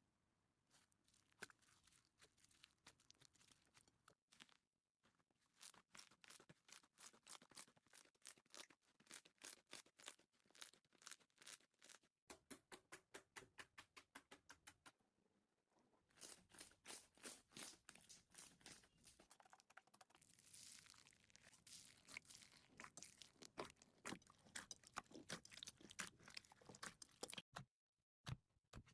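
Slime being squeezed and worked by hand: faint, quick runs of small clicks and crackles, about three or four a second in places, with a few short pauses.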